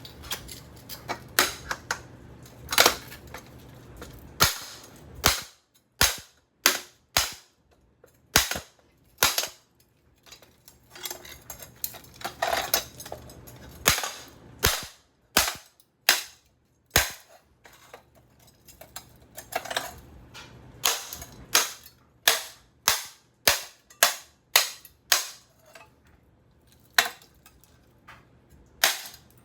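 Repeated sharp metal impacts as the steel housing of a Craftmade ceiling fan motor is struck, irregularly about one to two blows a second, some with a short ring. The motor holds up under the blows.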